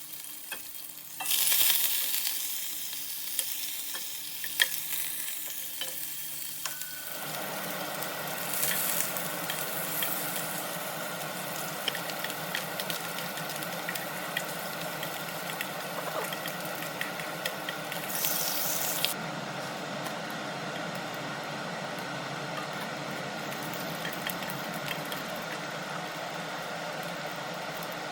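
Chicken skin, already boiled, frying in avocado oil in a pan: a steady sizzling hiss with crackles and scattered ticks of stirring, loudest about a second and a half in. A steady hum joins about seven seconds in.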